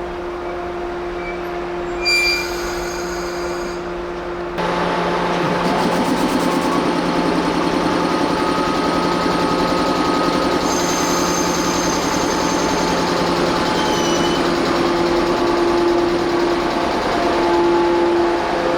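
JR Kyushu electric multiple-unit train at close range, with a short high-pitched tone about two seconds in. Loud running and rail noise comes in suddenly after about four and a half seconds and continues steadily, with a high whine joining partway through.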